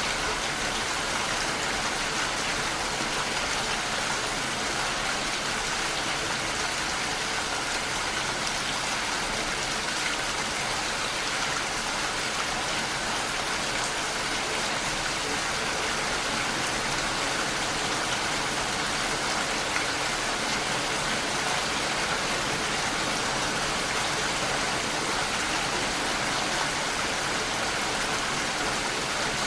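Steady, continuous rainfall with no breaks or single loud drops.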